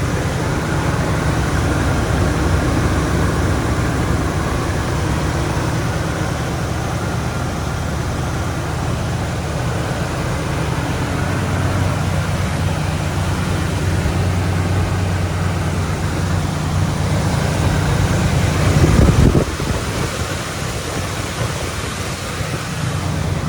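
A 402 cubic-inch big-block Chevrolet V8 idling steadily with a low, even rumble, with one short louder burst near the end.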